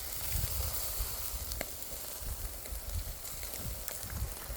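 Steak sizzling on a barbecue grill: a steady hiss with a few scattered pops and crackles, over a low rumble.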